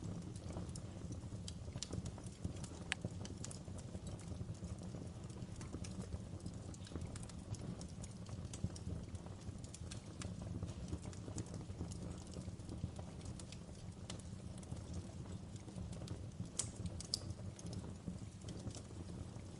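Wood fire crackling: irregular sharp pops and snaps over a steady low background of burning, with a small cluster of louder pops near the end.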